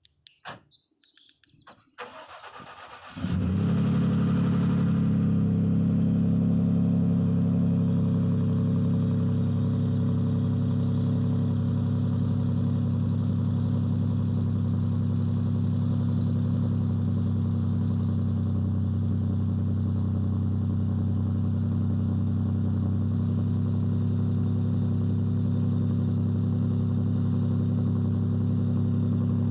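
Cold start of a 2016 Ford F-150's 2.7 EcoBoost twin-turbo V6, which breathes through catless downpipes and a Banks Monster exhaust. After a few faint clicks and a brief crank, the engine catches about three seconds in and settles into a loud, steady idle.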